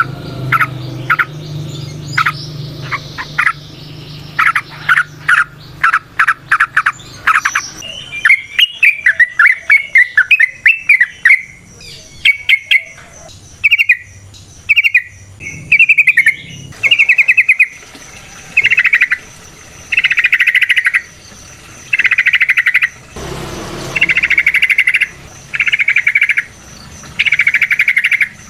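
Yellow-vented bulbul (trucukan) singing. Quick chattering notes lead into a bubbly warbling phrase about eight seconds in, followed by short, loud phrases repeated about every second and a half. A low steady hum runs underneath for roughly the first seven seconds.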